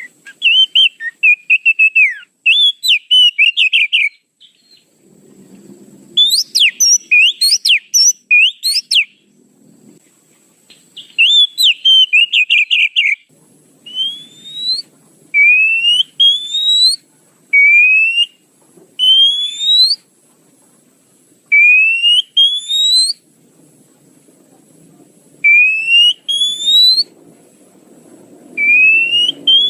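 Oriental magpie-robin (kacer) calls played as a bird-trapping lure: rapid chattering phrases for about the first dozen seconds, then a series of rising whistles repeated every second or two.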